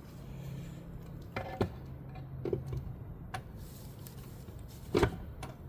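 A few light clicks and knocks of metal transmission parts and tools being handled, with a sharper knock near the end.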